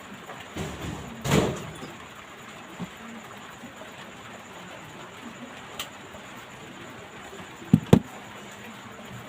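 Handling noises as a smartphone is picked up and worked on: a brief scrape about a second in, a few light ticks, and two sharp knocks close together near the end.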